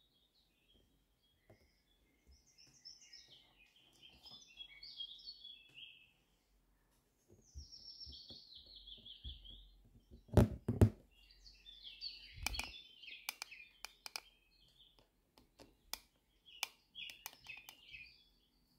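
Small songbirds chirping and twittering in short phrases. A few sharp knocks come about ten and twelve seconds in, the loudest sounds, followed by a run of lighter clicks.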